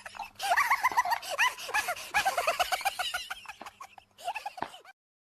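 Many short, rapid bird calls overlapping, as from a flock of fowl, thinning out and cutting off abruptly about five seconds in.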